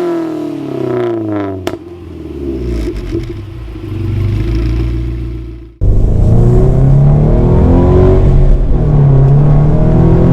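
Subaru BRZ's flat-four engine and exhaust: revs falling off and settling to a low, steady note, then a sudden cut about halfway through to a much louder clip of the engine running at low revs.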